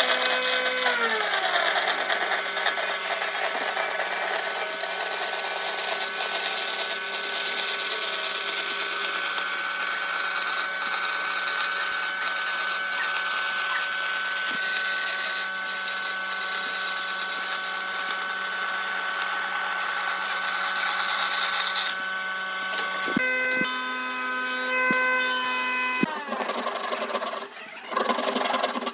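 Electric power tool cutting or sanding wood. Its motor whine drops in pitch just after the start as it bites into the wood, then holds steady for about twenty seconds. It stops briefly, runs again for about three seconds, and gives way to irregular scraping near the end.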